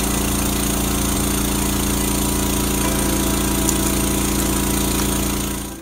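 Jackhammer sound: a steady, rapid hammering rattle over a low hum that cuts off abruptly near the end.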